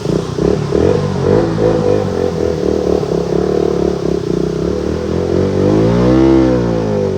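Motorcycle engine running under load, its pitch wavering, then revving up and easing back down about six seconds in.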